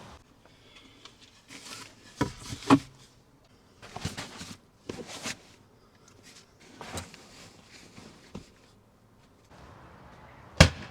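Irregular knocks, thuds and handling noises, with one sharp loud bang near the end.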